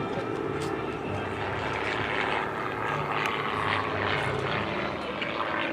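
Single-engine aerobatic propeller plane's big piston engine running in flight, a steady drone that shifts in pitch as it manoeuvres.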